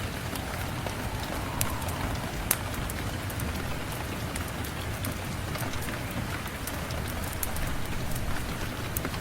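Steady rain mixed with a crackling wood fire: an even hiss with scattered sharp pops and ticks, two of them louder, at about a second and a half and two and a half seconds in.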